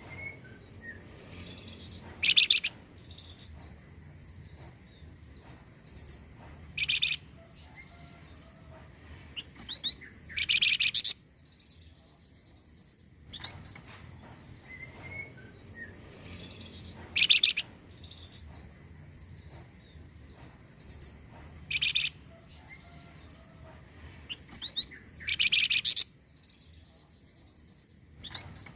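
Looped recording of a flamboyan songbird's song, the kind played as a lure to set caged birds singing: loud, harsh rattling bursts every three to five seconds between softer chirps and whistled notes. The whole phrase sequence repeats about every 15 seconds.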